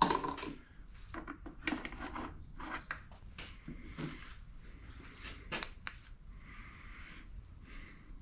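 Hand tools and compressor parts being handled during disassembly: a loud knock at the start, then irregular clicks and clatter, and a stretch of scraping near the end.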